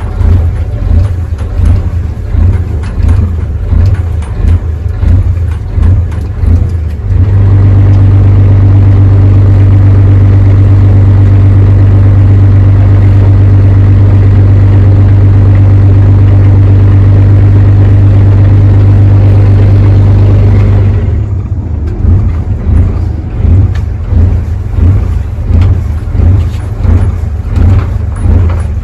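Loud, low engine drone that pulses unevenly at first, holds steady for about fourteen seconds, then goes back to pulsing.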